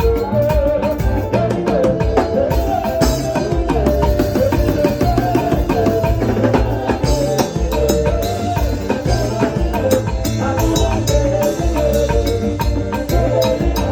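Live band playing upbeat music, with drums and percussion keeping a dense, steady beat over a strong bass and a melody line.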